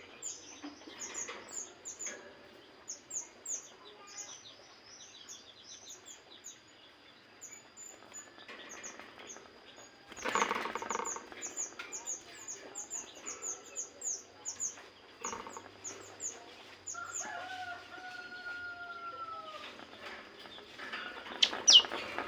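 Small birds chirping in quick, high, repeated notes over a steady faint high whine, with a burst of wing flapping about ten seconds in. A longer, slightly falling call comes a little later, and a sharp, loud whistle near the end.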